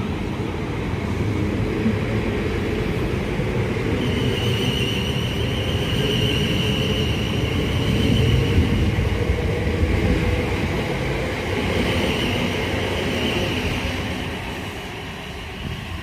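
South Western Railway train running through the station: a steady low rumble of wheels on rails, with a high whine over the middle, easing off near the end.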